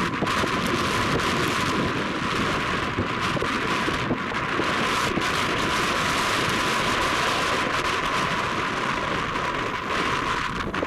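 Jet airliner engines: a loud, steady rushing noise that cuts off abruptly at the end.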